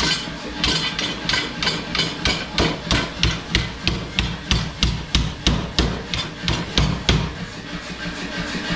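Power hammer striking a hot steel bar on a hot-cutting tool: a steady run of blows about three a second that stops about seven seconds in. The hammer's motor keeps running with a steady hum after the blows stop.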